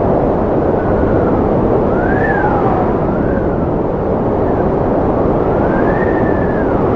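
Strong wind blowing: a steady rushing noise with whistling tones that rise and fall, about five times.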